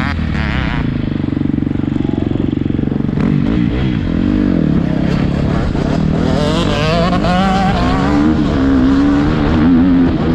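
Motocross bike engine revving up and down as it is ridden round the track, its pitch rising and falling repeatedly, heard from a helmet-mounted camera.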